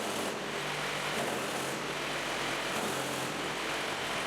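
Concrete block and paving block machine running: steady mechanical clatter with a low hum that comes and goes every second or two.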